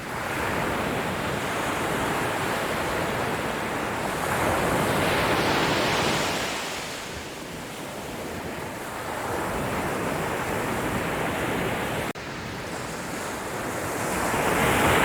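Sea waves washing onto the shore, the surf swelling and receding, with one surge about five seconds in and another building near the end.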